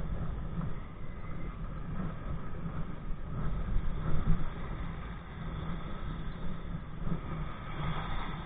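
Wind buffeting the microphone of a body-worn camera, with water rushing past a kite-towed kayak: a steady, uneven rumble and hiss.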